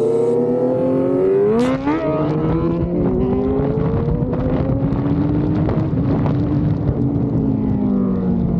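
Kawasaki inline-four motorcycle engine accelerating hard, its pitch rising, with a quick upshift about two seconds in. It climbs again for a few seconds, then holds and eases off slightly toward the end.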